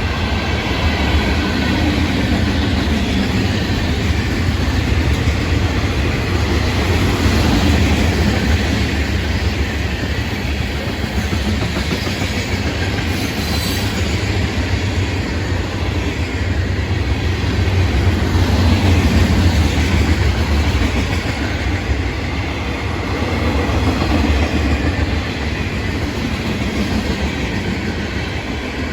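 A long freight train's cars rolling past: a steady rumble of steel wheels on rail with clickety-clack over the rail joints and a faint wheel squeal.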